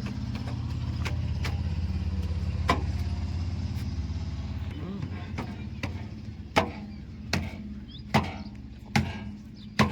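Heavy machine's engine running steadily, fading after about five seconds. From the middle on, sharp knocks repeat about once a second.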